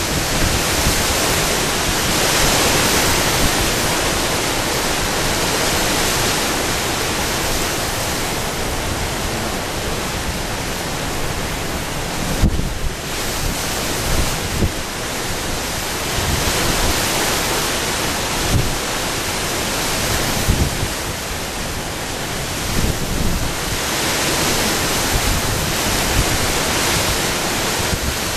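Strong gusty wind buffeting the microphone: a steady loud rushing noise with uneven low thumps as the gusts hit.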